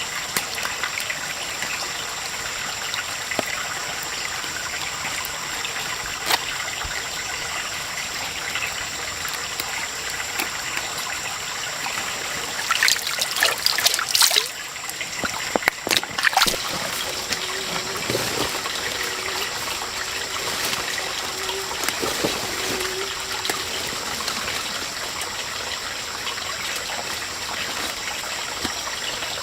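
Water trickling steadily, with a steady high tone over it. About halfway through come two short runs of sharp clicks and knocks.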